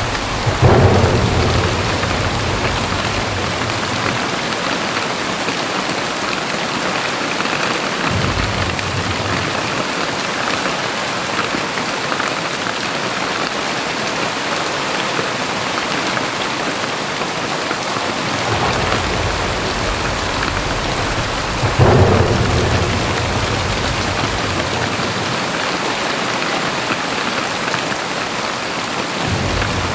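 Very heavy rain pouring steadily. There are two sudden low rumbles of thunder, one about a second in and a louder-peaking one about two-thirds of the way through, and weaker low swells between them.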